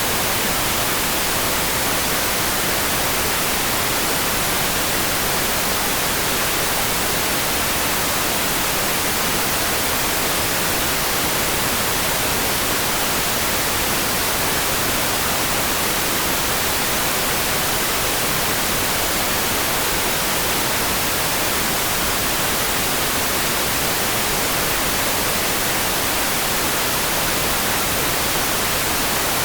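Steady rain-like hiss, perfectly even, brighter in the treble than the bass, with no separate drops, thunder or gusts standing out.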